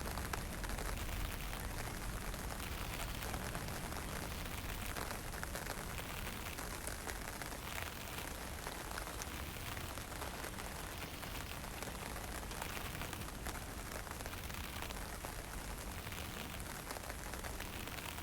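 Steady wind and a fine drizzle: an even hiss of light rain over a low rumble of wind.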